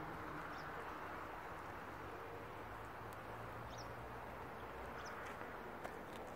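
Steady, quiet outdoor background hum with a few short, high bird chirps: about three single chirps, near the start, around the middle and about five seconds in.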